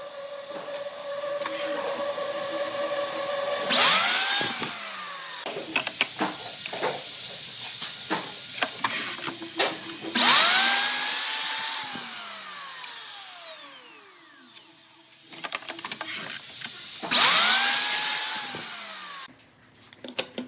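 A power tool's motor is switched on three times, about every six to seven seconds. Each time it spins up quickly, then winds down slowly. Knocks and clicks of wood and tool handling come between the runs.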